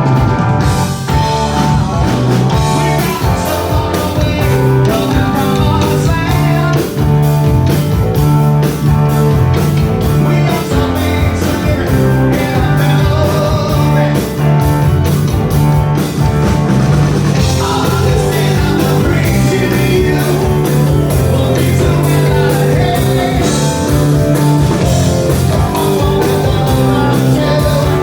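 Live rock band playing a song: drum kit and guitar with a singing voice, loud and continuous.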